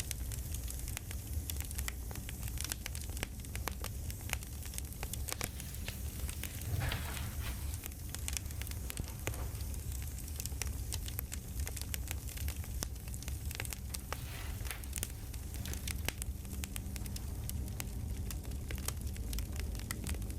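Crackling campfire: a steady run of small pops and snaps over a low rumble of burning wood, with a brief louder rustling rush about seven seconds in.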